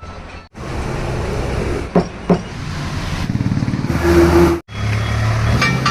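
Tractor engine running, broken by several abrupt cuts, with two sharp knocks about two seconds in.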